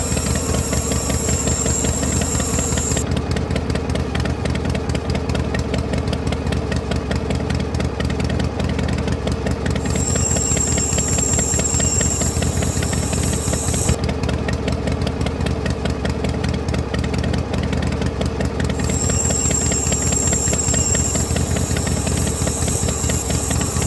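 The small electric motor of a homemade miniature tractor and flour-mill model running steadily, with a fast, even gear rattle. A high whine over it cuts out for several seconds twice and comes back each time.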